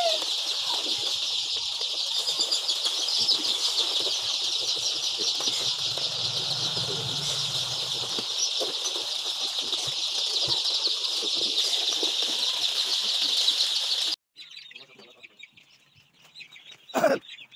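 A flock of laying hens in a poultry shed making a dense, continuous chatter of calls, which cuts off suddenly about fourteen seconds in. A much quieter stretch follows, with one short loud sound near the end.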